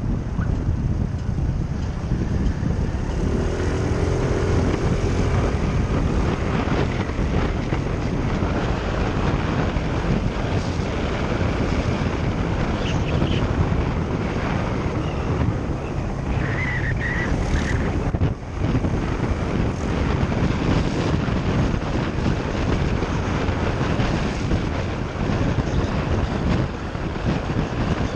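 Motorcycle engine running at road speed under heavy wind buffeting on the microphone, with a brief drop in level about 18 seconds in.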